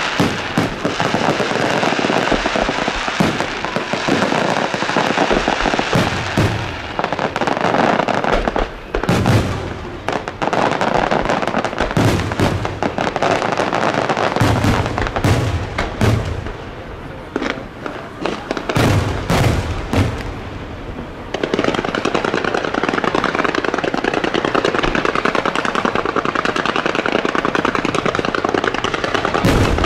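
Aerial fireworks show: shells bursting with sharp bangs over a continuous dense crackle. A rapid run of heavy bangs comes through the middle, then the crackling settles into a steady dense rush near the end.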